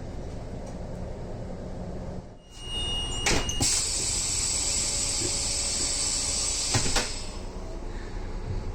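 VR Dm12 diesel railbus rumbling at a standstill. About two and a half seconds in, a high beep and a few clicks, then a loud hiss of air for about three seconds as the doors work.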